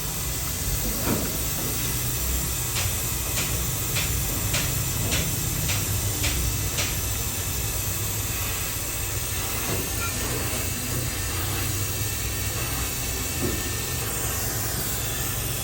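Steady hiss over a low hum, with a run of about eight sharp ticks, roughly two a second, a few seconds in.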